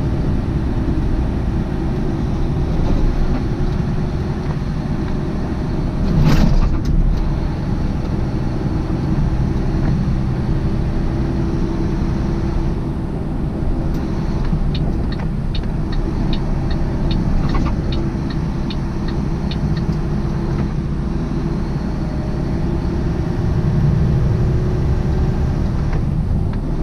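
Steady engine and road rumble inside a moving semi-truck's cab, with a brief louder swell about six seconds in. Around the middle, light regular ticks at a little over two a second run for about five seconds.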